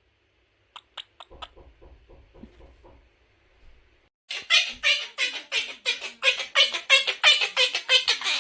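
Quaker parrot chattering: a few sharp clicks and soft mumbling, then, about four seconds in, a long run of loud, rapid chatter at about five notes a second.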